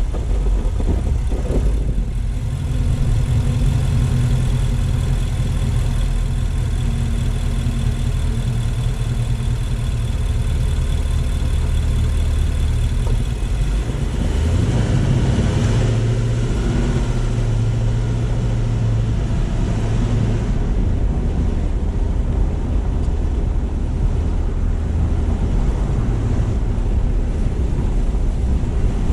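Car driving on city streets: a steady low rumble of engine and road noise, with a brief rise in hiss about halfway through.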